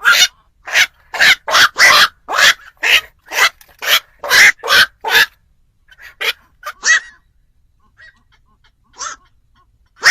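Black-crowned night heron giving a rapid run of short, loud calls, about two a second for the first five seconds, then a few scattered single calls.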